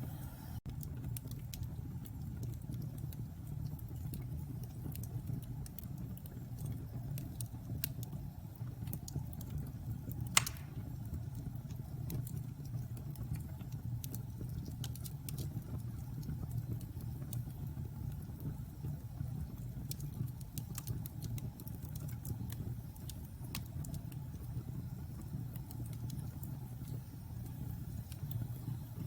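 Log fire burning in a fireplace: a steady low rumble of flames with scattered small crackles, and one loud pop about ten seconds in.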